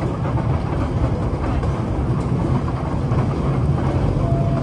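Kurobe Gorge Railway's narrow-gauge sightseeing train running along the track: a steady, loud rolling noise of wheels on rails.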